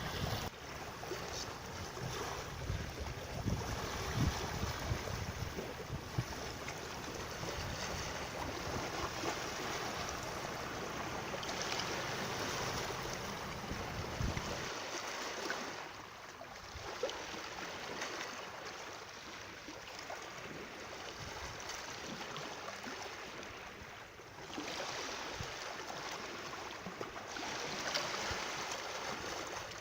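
Rushing water in a steady hiss that swells and eases. Wind buffets the microphone with a low rumble until about halfway, then stops.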